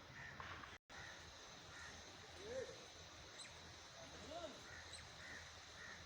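Faint outdoor ambience with short chirps repeating about twice a second, and two lower calls about midway; the sound drops out completely for a moment just under a second in.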